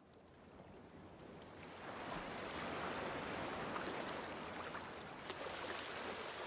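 Steady rushing noise like running water, swelling over the first two seconds and then holding, with a few faint ticks.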